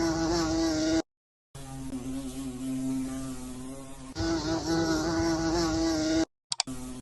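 Steady, even-pitched insect buzzing, which cuts out for about half a second about a second in, then resumes and stops abruptly near the end.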